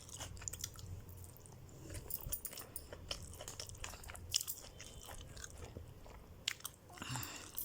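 Faint close-up chewing and mouth sounds of a person eating chicken, with many small scattered clicks.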